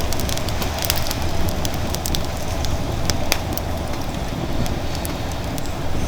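Firewood burning in a fire pit: a steady rush of flame with frequent sharp crackles and pops, one louder pop about three seconds in.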